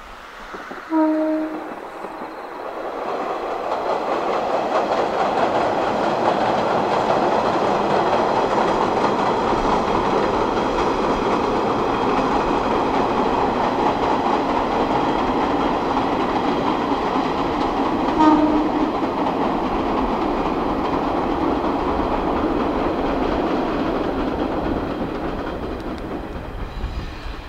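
Sanriku Railway diesel railcar crossing a long river bridge: a steady running noise that builds over the first few seconds and eases near the end. A short horn toot sounds about a second in and another about eighteen seconds in.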